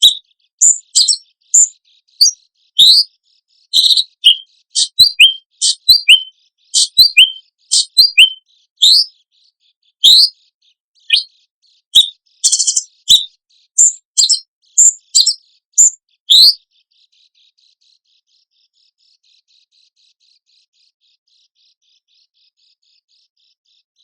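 Songbird masteran recording of loud, short, sharp piercing notes ('tembakan' shots) mixed with a few harsh buzzy rasps ('besetan'), about two a second. They stop about sixteen seconds in, leaving only faint high chatter.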